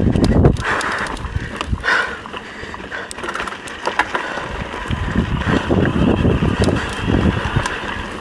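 Mountain bike being ridden over rough trail: tyres crunching and the frame and drivetrain rattling with irregular knocks, loudest right at the start.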